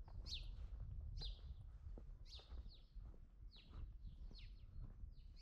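A bird chirping repeatedly: short high notes that fall in pitch, often in pairs, about two a second, over a faint low rumble.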